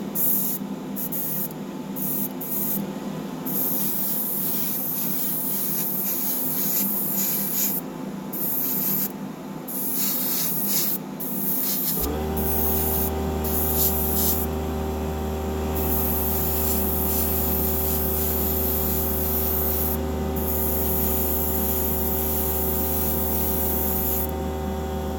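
Airbrush hissing in repeated short bursts as thinned paint is sprayed onto a small die-cast model's base. About halfway through, a motor starts with a sudden steady hum and keeps running under the spraying.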